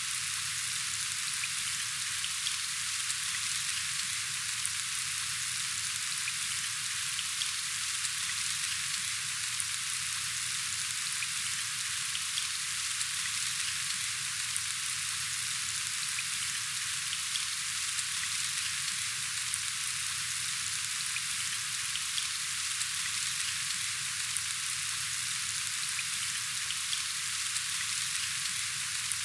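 Steady rain falling, an even hiss sprinkled with faint droplet ticks.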